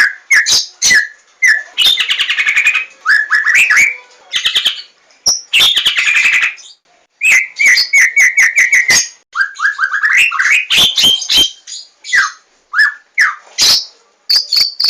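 White-rumped shama (Javan 'larwo' murai batu) singing a loud, varied song. Harsh chattering runs alternate with quick rising whistles and a fast series of repeated notes, broken by short pauses.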